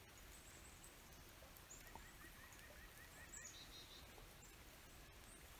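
Near silence with faint birdsong: a few thin, high chirps and a quick run of short repeated notes partway through.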